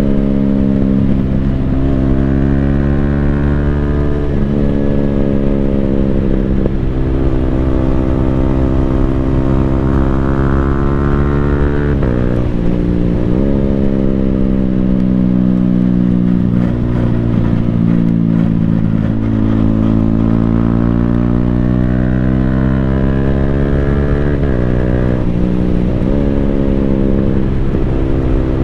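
Yamaha Sniper 155R's single-cylinder engine running through an Akrapovic full exhaust system while being ridden. The revs climb and fall several times, with sudden breaks in pitch at gear changes.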